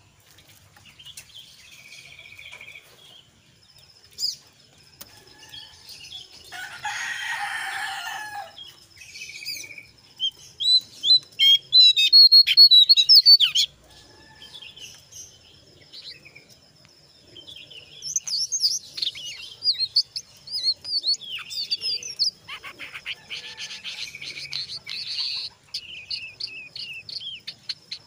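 A jongkangan coklat songbird singing: thin high chirps and a thin steady trill, then fast chattering runs and loud rapid strings of notes, the loudest around eleven to thirteen seconds in and again densely from about eighteen seconds on. A harsh rasping burst comes about seven seconds in.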